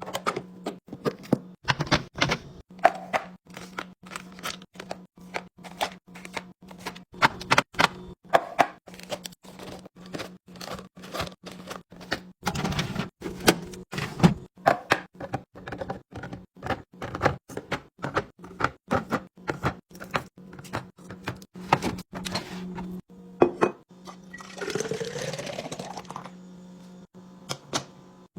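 Food containers, bottles and packaging being handled and set into a refrigerator: a quick run of clicks, taps and knocks over a steady low hum. Near the end a liquid is poured into a container for about two seconds, its pitch rising as it fills.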